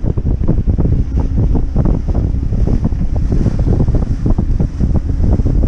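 Wind buffeting a GoPro action camera's microphone aboard a moving motor yacht: a loud, uneven low rumble with gusty flutter.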